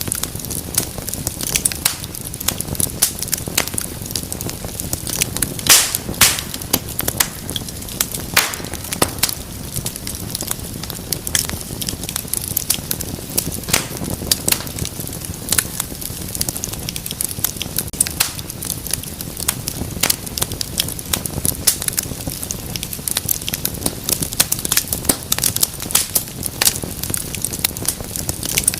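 Wood fire burning in a fireplace, crackling: many sharp, irregular pops and snaps over a steady low rumble of the flames.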